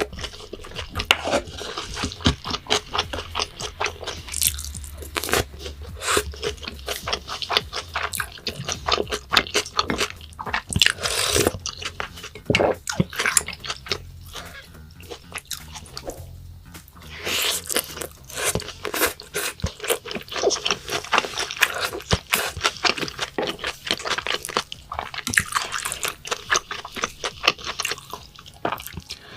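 Close-miked eating sounds: a person chewing and swallowing with many quick, wet mouth clicks and smacks, while eating raw beef and rice.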